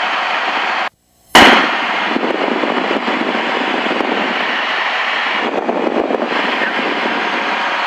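Steady hiss of Cessna 172 cabin noise heard through the headset intercom. About a second in, the intercom cuts out completely for half a second and comes back with a loud pop, and it cuts out again at the end. This is the intercom squelch gating the audio, its knob having been turned.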